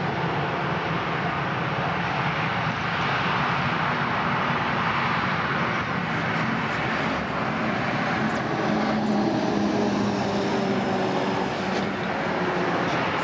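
Boeing 737-800's CFM56-7B jet engines running steadily as the airliner departs, a dense steady rush with a low hum underneath.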